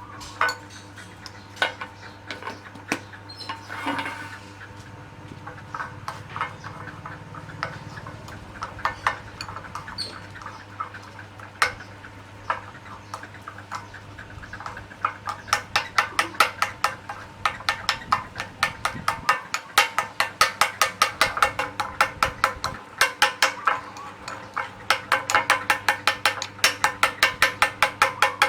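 A spoon clinking against a cup or bowl, scattered at first, then in a quick, even run of several clinks a second through the second half, as when stirring or scooping a drink.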